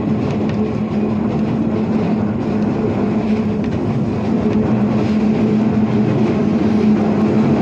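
Shizuoka Railway electric train running along the track, heard from inside the front of the car: steady wheel-and-rail running noise with a strong low hum, growing slightly louder near the end.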